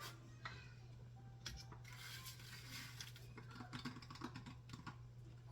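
Faint, irregular light clicks and taps of kitchen utensils and containers being handled, over a low steady hum.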